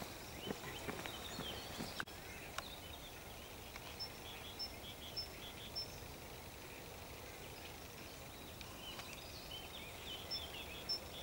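Small birds chirping and calling over a steady background hiss of open countryside, with one high short note repeated several times at even spacing, twice over. A few faint clicks sound in the first few seconds.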